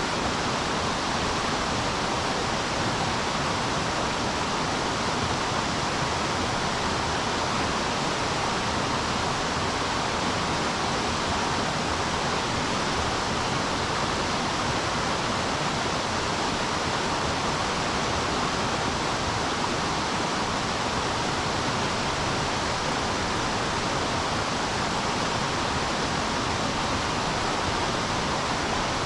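River water rushing steadily past: a constant, even wash of flowing current with no breaks or changes.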